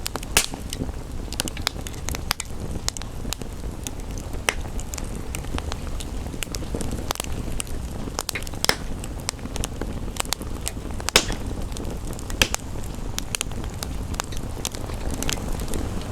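Fireplace log fire crackling, with irregular sharp pops, a few much louder than the rest, over a steady low rumble.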